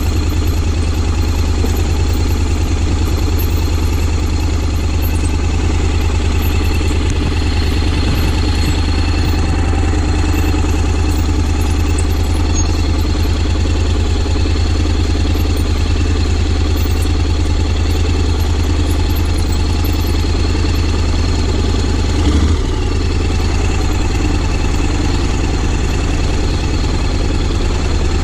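Honda X-ADV 750's 745 cc parallel-twin engine idling steadily, with one brief louder moment about 22 seconds in.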